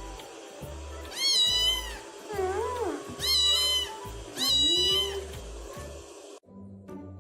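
Kitten meowing: three loud, very high-pitched meows about a second apart. A lower, deeper cat call rises and falls between and under them. Background music plays throughout.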